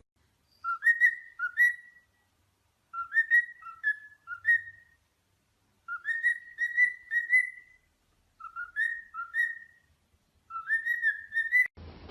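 Pet bird whistling: five phrases of two to five short rising whistled notes each, separated by pauses of about a second.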